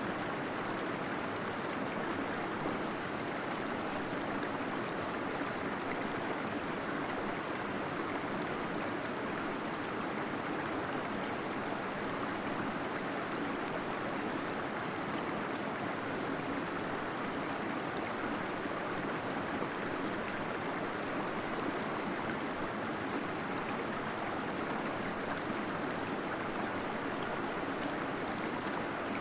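Small waterfall splashing and gurgling steadily inside a cave, a constant even rush of falling water.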